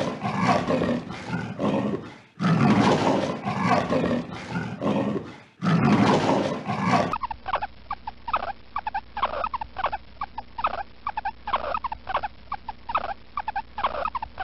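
Leopard calling in three rasping roar bouts. About seven seconds in it gives way to guinea pigs squeaking: a quick run of short, high, rising squeaks, about three a second.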